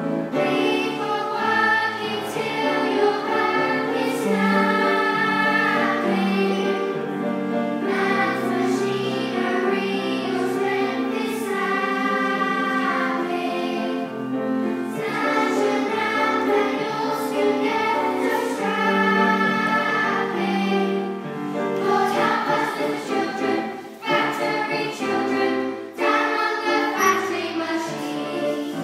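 A group of children singing together as a choir over a musical backing.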